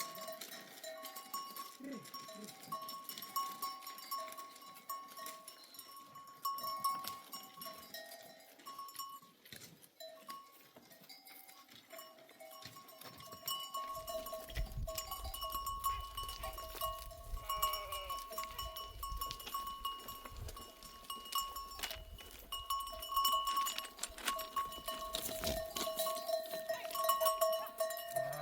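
Bells on a grazing flock of sheep clinking and ringing on and off as the animals move. A low rumble joins about halfway through.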